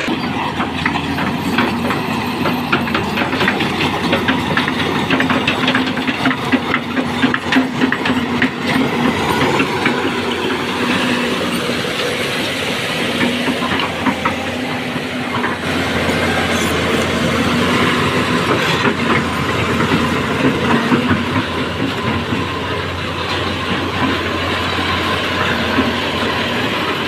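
Heavy diesel construction machinery running: a steady engine drone with continual rapid metallic clanking and rattling.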